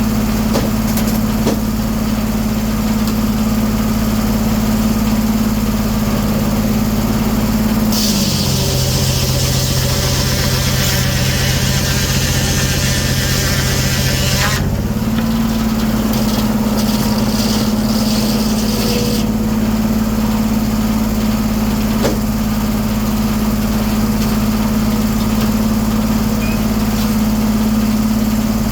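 1907 American sawmill running, its steady drive hum dropping in pitch about 8 seconds in as the saw takes the load of a cut through a cherry log, with a hissing cutting noise for about seven seconds. The hum then comes back up to speed as the cut ends.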